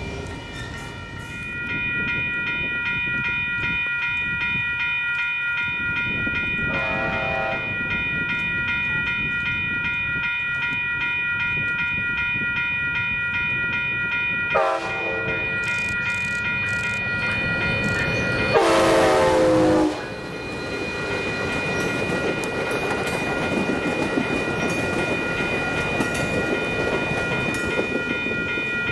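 A train runs by with steady rail rumble and sounds its horn three times: a short blast, then another, then a longer, louder one about two-thirds of the way through. A continuous high ringing runs underneath.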